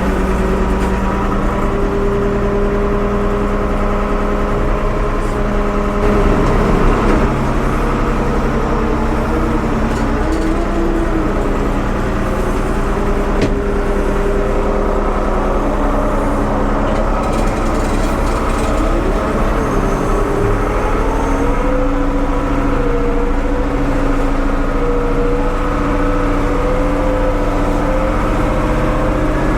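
1975 Ford 550 backhoe's engine running steadily, its pitch rising and falling a few times as the engine speed changes.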